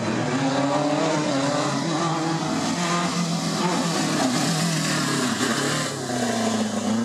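Rally car engine running hard, its revs rising and falling through the gears, then dipping and climbing again near the end as it accelerates.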